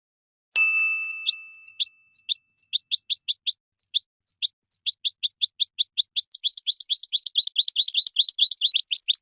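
European goldfinch singing: a held, high whistled note, then a long series of quick downward-slurred notes that speeds up into a dense trill over the last few seconds.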